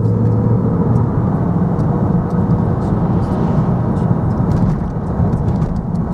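Car driving along a road: steady engine and tyre rumble, with a low hum that eases off about a second in.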